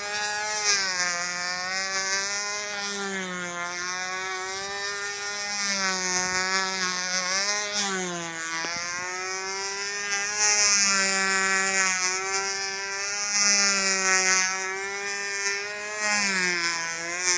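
O.S. .20 FP two-stroke glow engine of a control-line model plane running at high revs in flight, a steady buzzing drone whose pitch dips and rises again every two to three seconds as the plane circles.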